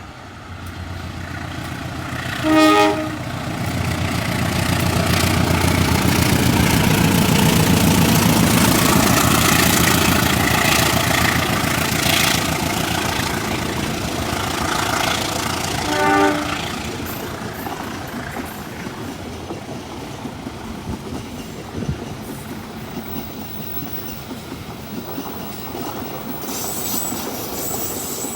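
A passenger train passing close by. Its horn sounds two short blasts, one about three seconds in and another about sixteen seconds in, over the rumble of the train rolling past, which is loudest in the first half and then settles into a steady clatter of wheels.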